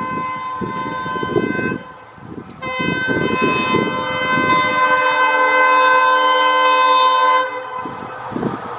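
EMD WDP4-series diesel locomotive's horn sounding twice, a blast that ends about two seconds in and then a long blast of about five seconds, over the low rumble of the passing train.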